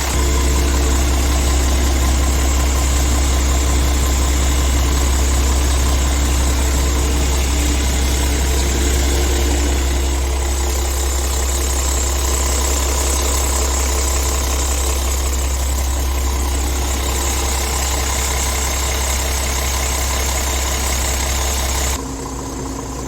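Scania S tractor unit's diesel engine idling steadily with a strong low rumble; the sound drops abruptly to a quieter, slightly different idle near the end.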